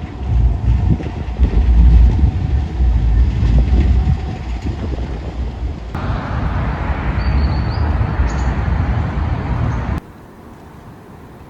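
Bombardier NGT6DE tram running past on its rails: a heavy low rumble with knocks from the wheels, turning to a steady hiss for a few seconds. The sound cuts off suddenly near the end.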